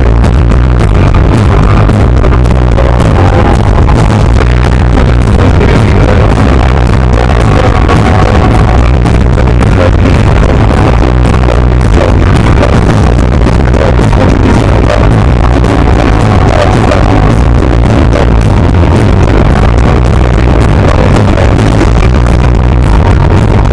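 Punk rock band playing live at full volume, a dense, continuous wall of sound. The recording is very loud throughout, near the top of its range.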